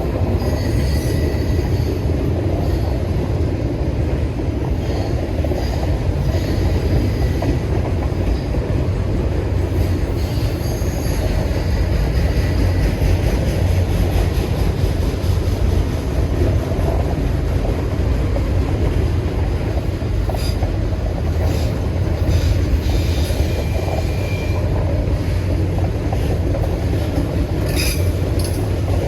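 Freight train rolling past with a steady heavy rumble of wagons on the rails, and faint high wheel squeals that come and go.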